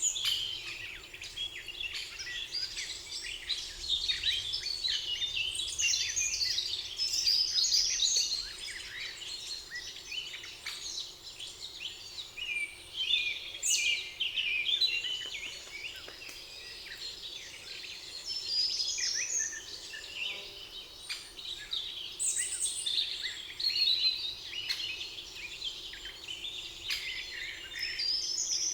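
A chorus of several songbirds singing together, many overlapping chirps, whistles and trills, over a faint steady background.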